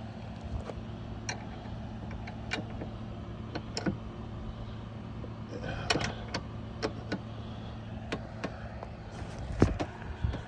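A rooftop tent on a small trailer being opened up: scattered clicks and knocks from its frame and fittings, with a cluster about six seconds in and the loudest knock near the end, over a steady low hum.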